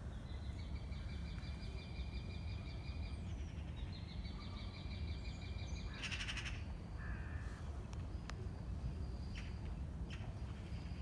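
Wild birds calling: two long, rapid high trills one after the other, and a single loud harsh call about six seconds in, over a steady low rumble.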